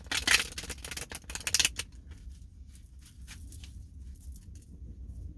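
Tarot cards being shuffled: a dense, rapid rustle of card edges for about two seconds, loudest near the start and again just before it stops, then scattered softer card clicks.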